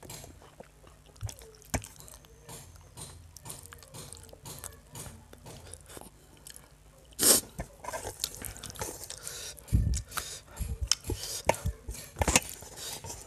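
Close-up chewing of a mouthful of chicken curry and rice, with wet smacking mouth sounds and fingers squishing and mixing rice and gravy on a metal plate. A few louder smacks stand out, the loudest about seven seconds in.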